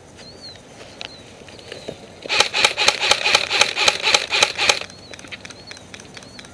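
Airsoft rifle firing a fast string of about a dozen shots, roughly five a second, for about two and a half seconds, starting a couple of seconds in.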